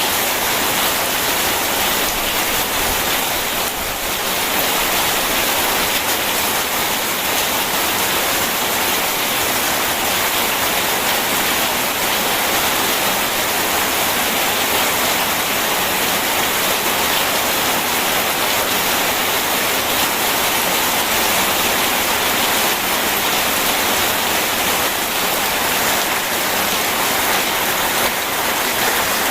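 Steady heavy rain mixed with rushing river water, an even unbroken hiss.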